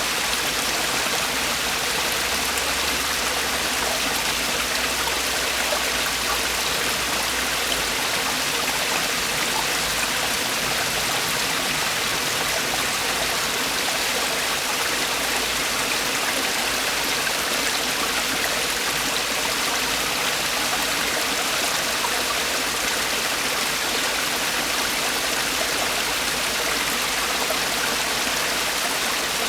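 Mountain stream water falling and rushing over rocks in a small waterfall, a steady even splashing rush without change.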